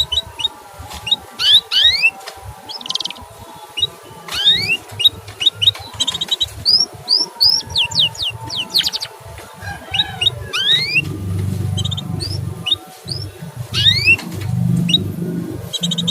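Canary chirping: many quick rising 'cuit' chirps and a few short rapid trills, with a low rumble underneath from about eleven seconds in.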